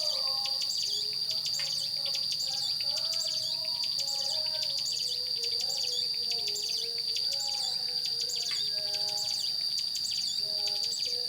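Young ciblek gunung (a prinia) singing a fast, continuous run of high chirps over a steady high-pitched insect drone.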